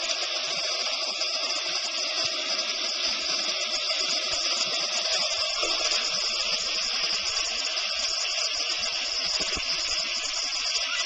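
Steady rushing of the Erawan waterfall's seventh tier, an even wash of falling water without pause.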